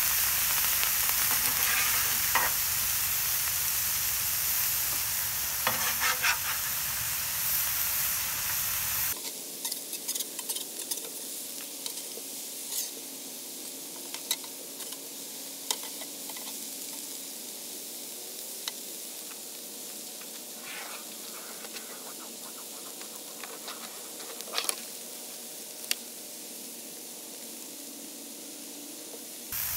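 Pork chops and sliced potatoes sizzling on the hot steel top of a Blackstone 17-inch griddle, a steady frying hiss, with scattered scrapes and taps of a metal spatula on the griddle. The sizzle gets quieter about nine seconds in.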